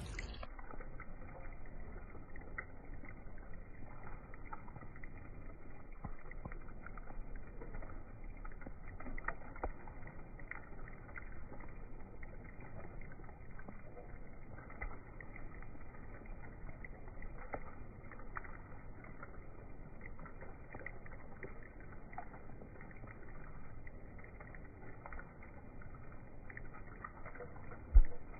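Rain falling into a birdbath's water, slowed down so the patter sounds dull and muffled, with scattered soft drip taps. A single loud thump comes near the end.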